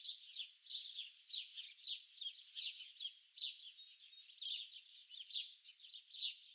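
Small songbirds chirping busily, a quick run of short, high, downward-sliding chirps, several a second, overlapping one another.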